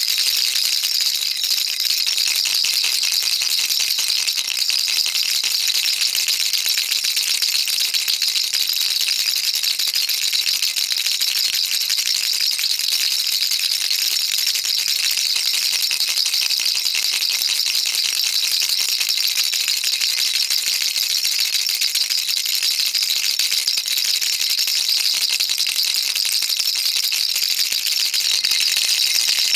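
Baby rattle shaken continuously, a dense, even shower of small bead clicks with no pauses.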